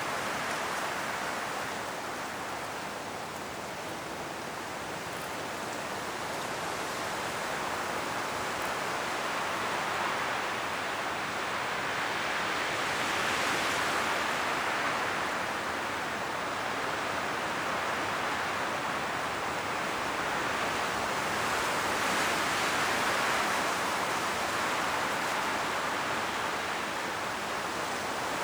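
Strong wind blowing through forest trees, rustling the autumn leaves in a steady hiss. It swells in slow gusts, dipping a few seconds in and rising again about halfway through and near the end.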